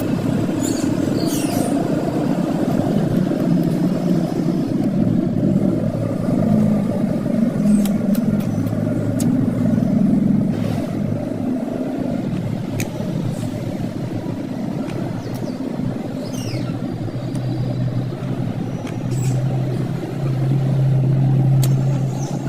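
Steady low motor rumble, like road traffic, with a few short, high, falling calls, typical of ringneck parakeets, about a second in and again past the middle.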